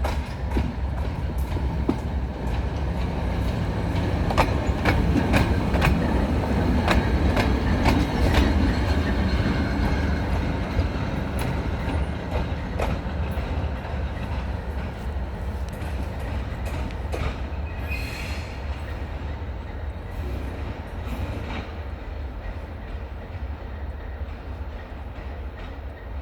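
Train running on the rails: a steady low rumble with a run of sharp wheel clicks over rail joints. It is loudest about a third of the way in, then slowly fades, with a brief faint wheel squeal about two-thirds through.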